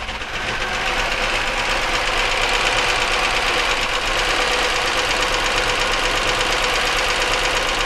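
1999 Chevy Malibu's 3100 V6 running steadily with a fast, even internal knock. The owner says this internal engine noise doesn't sound like rod knock.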